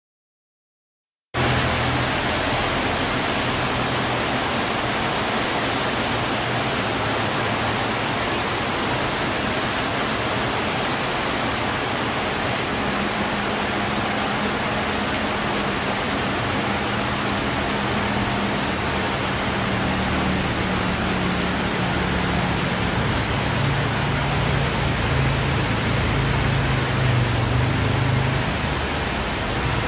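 Heavy rain pouring down, a steady, even hiss that starts about a second in. A low hum runs underneath through the second half.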